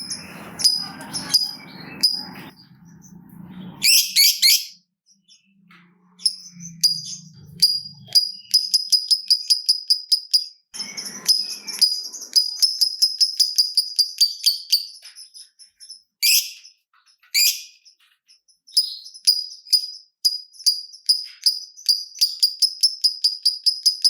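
Lovebird (Agapornis) chattering in long runs of sharp, high clicking chirps, several a second, the rapid 'typing' call. A few louder, harsher screeches break in.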